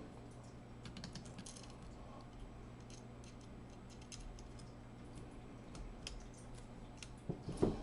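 Faint, scattered small clicks and taps of a screwdriver tip and tiny screws against a laptop's plastic case and cooling fan as the screws are worked toward their holes, with a louder handling bump near the end. A steady low hum runs underneath.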